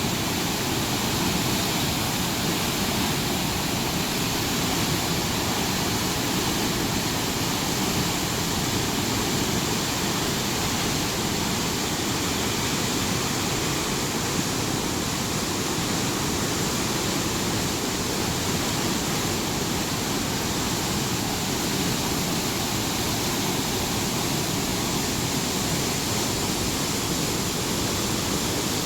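A powerful waterfall, a steady rushing of falling water with no change.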